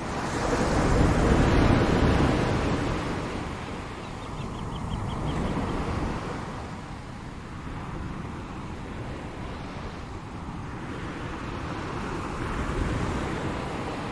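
Ocean surf: waves washing in as swells of noise. The biggest swell comes about a second or two in, with smaller ones around five seconds and near the end.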